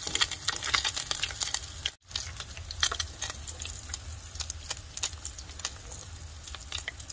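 Dried fish pieces (khô cá dứa) frying in hot oil in a pan: a steady sizzle with many sharp crackles and pops, busier in the first two seconds, as the pieces are turned and lifted with chopsticks. The sound cuts out for a moment about two seconds in.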